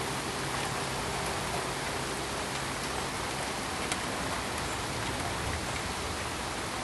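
Steady pink noise: an even, full-range hiss much like rain, with a faint low hum underneath that drops out about three seconds in.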